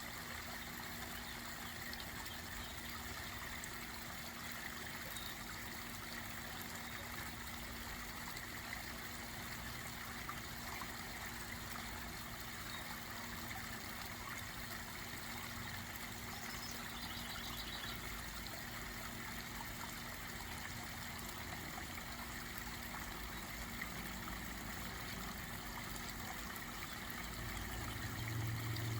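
Steady trickling of a backyard pond waterfall, running water with no let-up.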